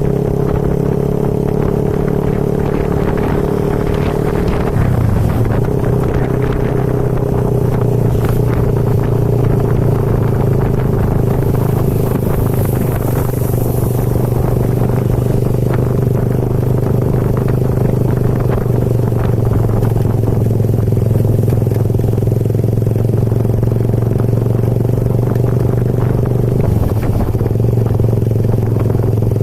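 Motor vehicle engine running steadily while travelling, its pitch shifting briefly about five seconds in and again near the end.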